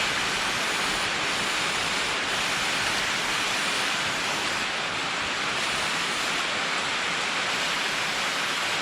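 Steady, even hiss with no rhythm or pitch, cutting off abruptly near the end.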